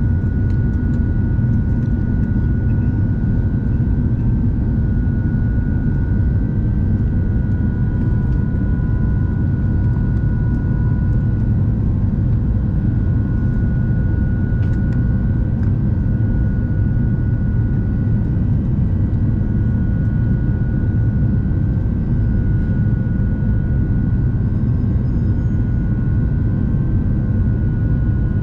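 Cabin noise of an Airbus A350-900 in flight: a steady deep rumble of airflow and Rolls-Royce Trent XWB engines, with a few thin steady whine tones held over it.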